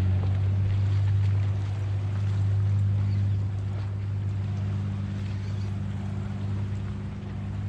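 Steady low drone of a boat motor under way, with a light hiss of water and wind.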